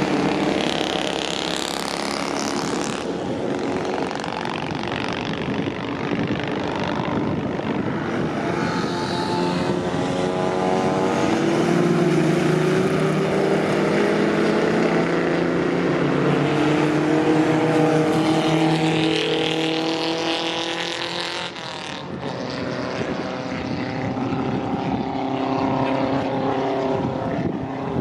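Vintage racing car engines running hard as cars pass, their pitch rising and falling with speed and gear changes. The sound breaks off sharply twice and picks up again.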